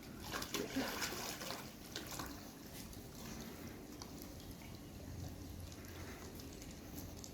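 Water splashing and sloshing as dogs swim, busiest in the first couple of seconds, then settling to a quieter, steady wash.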